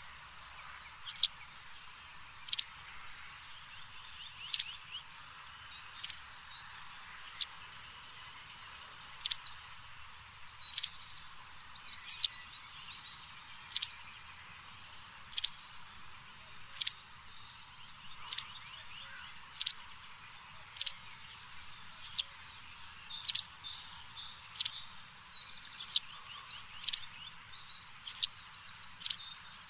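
Birdsong: one bird gives a short, sharp, high chirp over and over, roughly every one and a half seconds, while rapid trills come in now and then.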